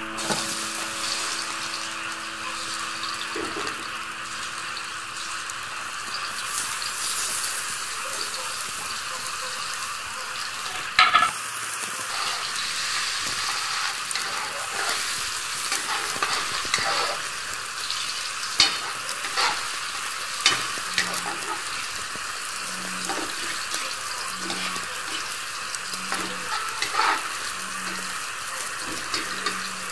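Chopped onion, garlic and ginger sizzling in hot oil in a steel wok, stirred with a metal spatula. The spatula scrapes and clanks against the pan a few times, loudest about eleven seconds in.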